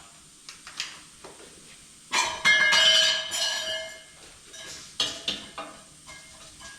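Metal parts knocked together and set down: a few light clinks, then a loud clang about two seconds in that keeps ringing for over a second, and more clinks around five seconds in.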